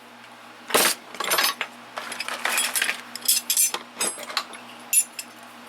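Small metal tools clinking and clattering against each other as they are handled and dropped into a toolbox drawer: a string of short, sharp clinks, some in quick clusters, about eight to ten over the few seconds.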